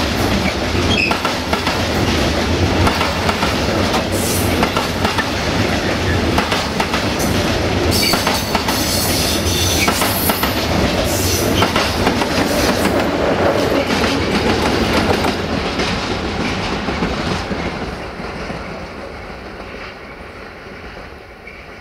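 Freight train of covered wagons rolling past, its wheels clicking over the rail joints, with brief high wheel squeals. The sound fades over the last few seconds as the train moves away.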